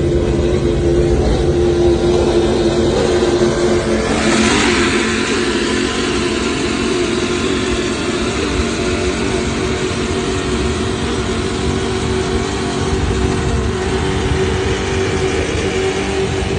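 A motorboat engine running steadily at speed, with a rushing hiss swelling about four seconds in.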